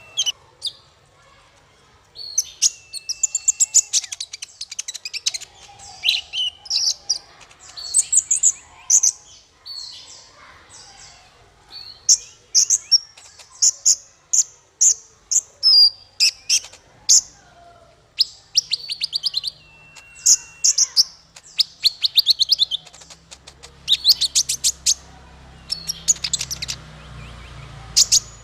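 A small songbird sings a fast, varied song of high chirps, trills and sharp clicks, in quick bursts with short pauses. A faint low hum comes in near the end.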